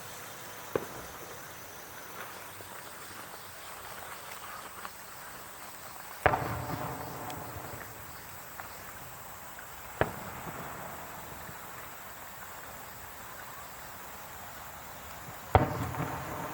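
Fireworks shells bursting: a sharp bang about six seconds in, another at ten seconds and one near the end, the first and last trailing off in a rolling crackle and echo, with a smaller pop just under a second in.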